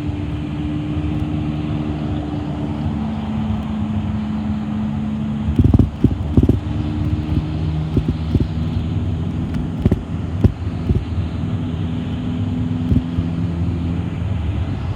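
City bus in motion, heard from inside: a steady engine drone with road noise, its pitch shifting about three seconds in. A cluster of loud knocks comes around six seconds in, with scattered rattles after.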